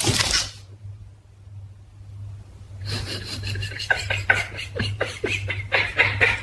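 A person laughing hard in rapid, breathy gasps from about three seconds in, over a steady low hum.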